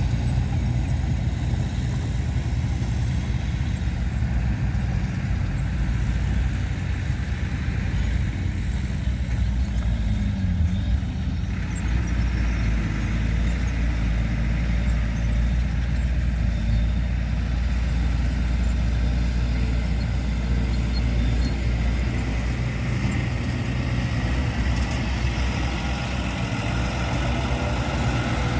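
Diesel engines of heavy earthmoving machinery running steadily, a continuous deep drone. About twelve seconds in a higher hiss joins it, and near the end a faint rising whine.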